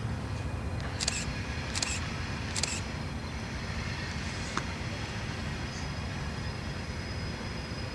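Diesel freight train led by a CSX GE AC4400CW locomotive rolling past, a steady low rumble of engine and wheels. Three short high-pitched chirps come about one to three seconds in.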